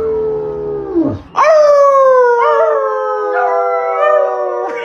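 Dog howling: two long howls. The first fades out about a second in. The second follows at once, louder, starting higher and sliding slowly down in pitch for about three seconds.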